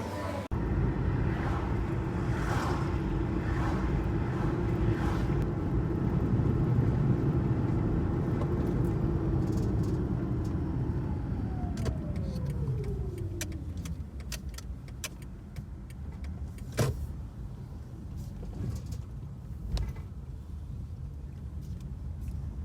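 A car driving: a steady low rumble of engine and road noise, with a falling whine about halfway through as the car slows down. After that it runs quieter, with a few sharp clicks.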